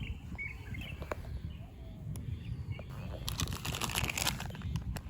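Outdoor ambience: a few short bird chirps near the start over a steady low rumble, then a burst of rustling about three seconds in that lasts about a second.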